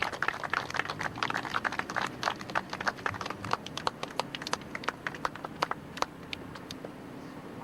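Audience applauding: many hand claps that thin out and die away near the end.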